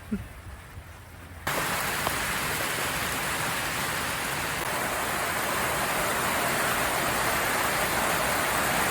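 Heavy, steady rain, starting abruptly about a second and a half in.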